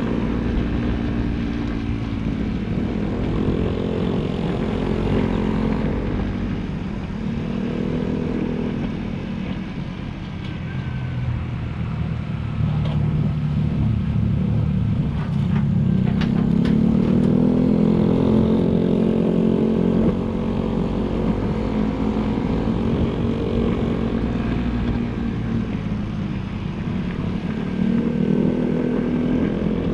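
Motorcycle engine running under way, its pitch rising and falling several times as the rider speeds up and eases off. A steady low rumble of wind and road runs underneath.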